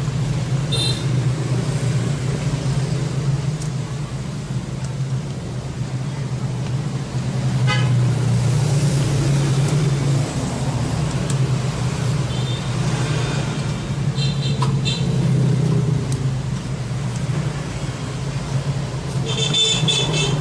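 Steady road traffic noise with short horn beeps sounding a few times: about a second in, twice in the middle and a cluster near the end.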